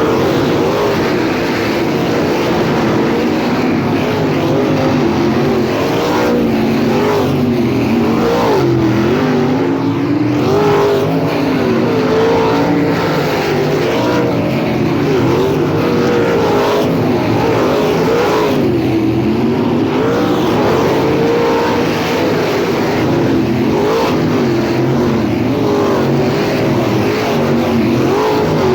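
Several sprint car engines racing on a dirt oval, their pitch rising and falling with the throttle as the cars go through the turns; loud and unbroken throughout.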